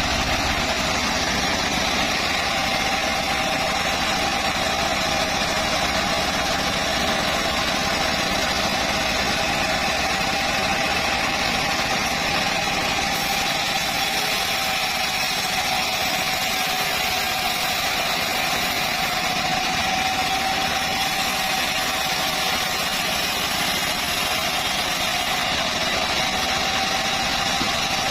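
Band sawmill (gergaji selendang) running steadily, its motor and blade making a constant whine over a dense mechanical noise.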